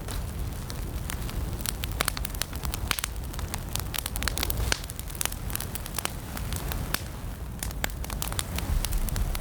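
Wood fire in a fireplace crackling and popping, with sharp irregular pops over a steady low rumble of flame.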